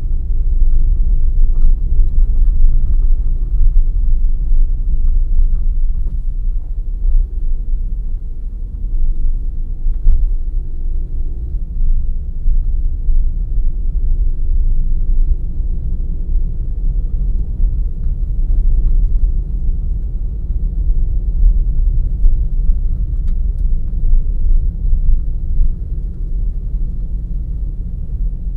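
Car driving along a forest road: a steady low rumble of tyres and engine, with a faint engine hum that drifts in pitch and a few light ticks.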